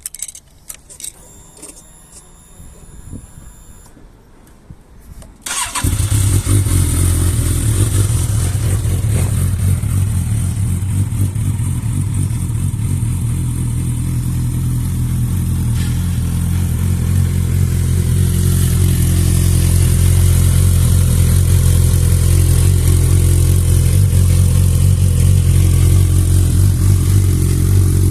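Suzuki GSX650F's inline-four engine starting about five seconds in after a few quiet clicks, catching at once and then idling steadily. It grows a little louder in the second half.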